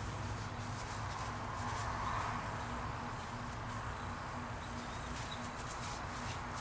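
Steady low electrical hum, like a motor or mains hum, with faint scattered ticks over it.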